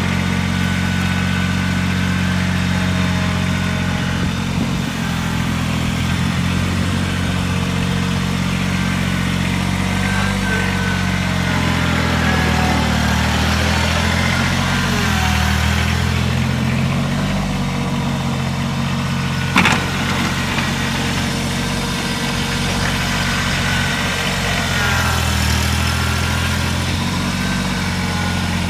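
Kubota BX2380 sub-compact tractor's three-cylinder diesel running steadily while plowing snow, its pitch wavering a little midway. A single sharp clank about two-thirds of the way through.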